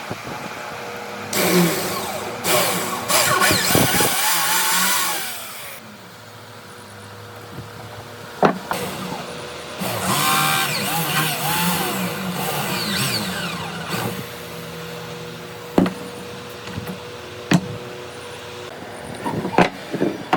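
A motor-driven power tool running in two stretches, its pitch rising and falling, with several sharp knocks in between.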